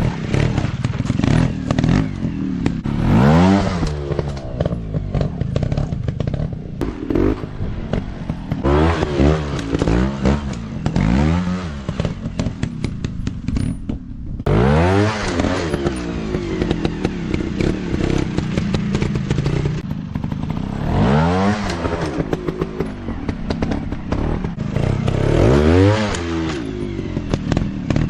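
Dirt bike engine revving in repeated bursts, its pitch sweeping up with each throttle opening about seven times, over a running clatter and crackle.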